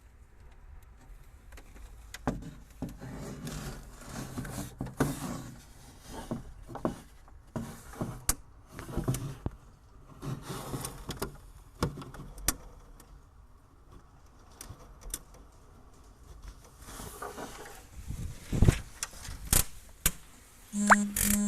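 Irregular clicks, knocks and rustling of things being handled and moved about, with a few sharper knocks about three quarters of the way through. A short buzzing tone comes at the very end.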